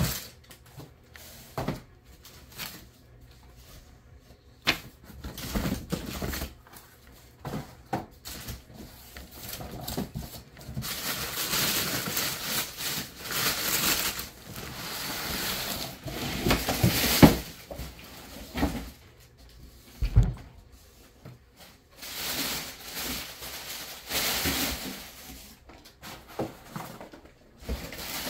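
Unboxing: cardboard box and packaging being handled, with rustling and scraping stretches of cardboard and plastic and scattered knocks and thumps as the air compressor is pulled out.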